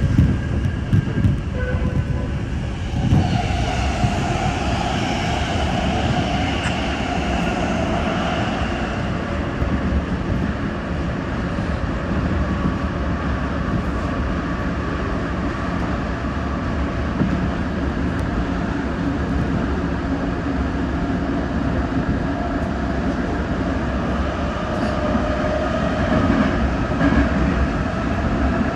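Electric commuter train running at speed, heard from inside the car: a steady rumble of wheels on track, with a higher whine that comes in about three seconds in, fades, and returns near the end.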